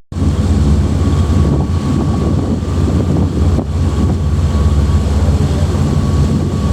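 Sightseeing boat's engine running steadily, heard from aboard as a constant low drone with a thin steady whine above it.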